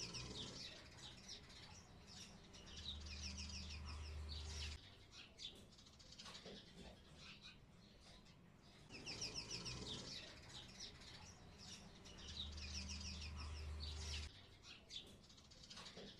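Faint bird chirps and quick trills from a looped backing track, the same few seconds of birdsong repeating about every nine and a half seconds, with a low hum under part of each pass.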